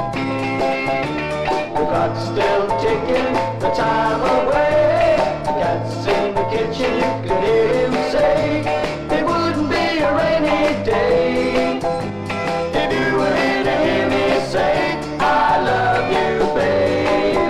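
A mid-1960s beat-group pop record playing from vinyl: full band with guitar over a steadily pulsing bass line.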